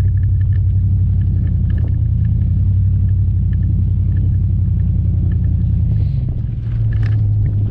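Pickup truck engine and drivetrain running steadily under way, a low even drone. The drone dips about six seconds in, as when easing off the throttle, then picks back up.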